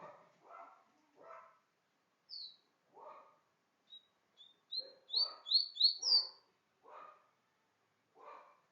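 A songbird singing short, high down-slurred whistles that speed up and grow louder into a run of four ringing notes about five seconds in. A dog barks repeatedly, about once a second, throughout.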